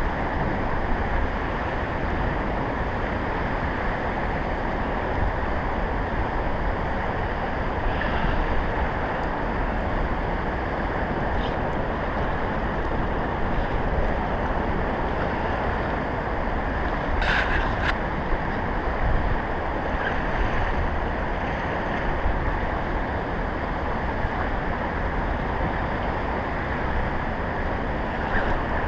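Steady noise of strong wind buffeting the microphone, mixed with river water rushing past an anchored boat. There is a brief cluster of clicks a little past halfway.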